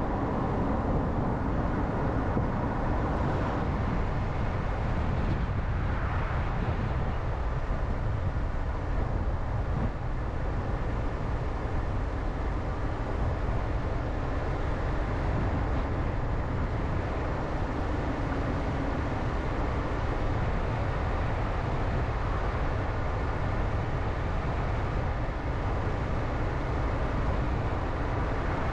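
Steady road and engine noise of a car driving along, heaviest at the low end, with no distinct events.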